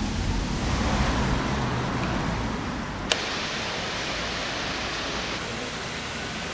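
Steady outdoor city ambience: an even wash of street noise, with a single sharp click about three seconds in.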